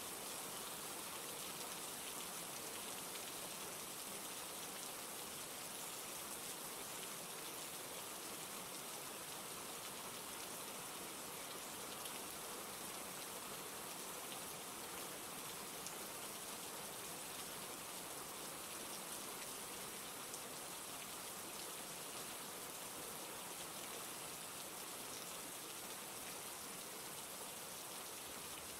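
Steady rain falling, an even hiss of many drops with scattered fine patters.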